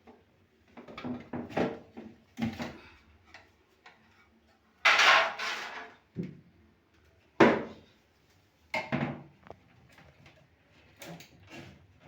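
Fridge shelves and drawers being pulled out and handled: a series of knocks and clatters of glass and plastic, with a longer sliding scrape about five seconds in and a sharp knock soon after.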